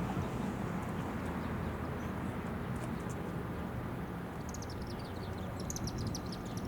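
A bird gives a rapid run of short, high-pitched chirps starting about four seconds in, over a steady low rumble.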